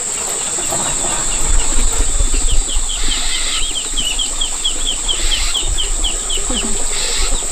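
Chickens being fed: chicks peep in quick, repeated falling notes, about three a second, with a few short bursts of wing flapping. A steady high-pitched buzz runs underneath.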